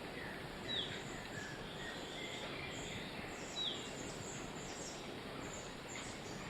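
Several wild birds calling over steady background noise: many faint short chirps, and two louder short calls that drop in pitch, about three seconds apart.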